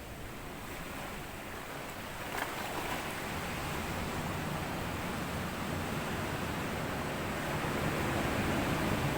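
Small sea waves washing up onto a sandy beach, a steady rush that builds about two seconds in and swells louder again near the end as a wave comes in.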